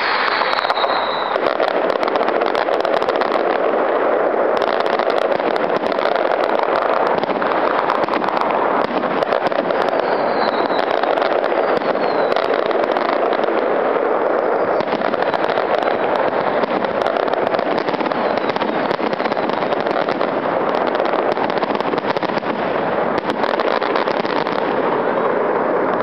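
Fireworks finale barrage: a loud, continuous din of bursts and crackling, peppered with many sharp bangs, that starts abruptly and keeps up without a break. Short falling whistles come at the start and again about ten seconds in.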